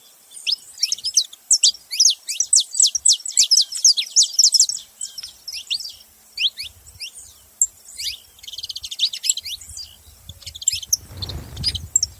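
Saffron finches chirping: many quick, sharp downward chirps, thickest in rapid runs a couple of seconds in and again past the middle, with a brief low rumble near the end.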